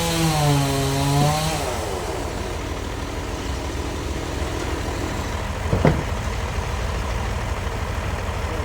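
Bandsaw blade finishing its cut through a trembesi log, its wavering whine and hiss dying away about a second and a half in. The sawmill machinery then runs on steadily without load, with one short sharp knock near the middle.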